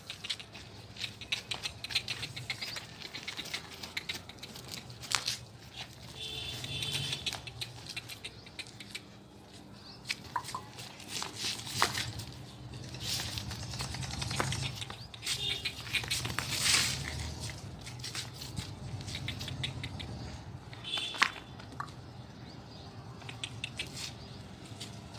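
Goats moving about in a pen, with irregular tapping and patter of hooves against a low steady hum. A few short high chirps come about a quarter, halfway and four-fifths of the way through.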